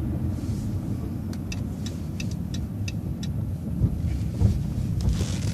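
City bus running, a steady low engine and road rumble, with a quick run of light ticks for about two seconds in the middle.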